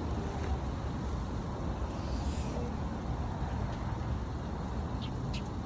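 Steady low rumble of road traffic, with a few short, faint high-pitched chirps about five seconds in.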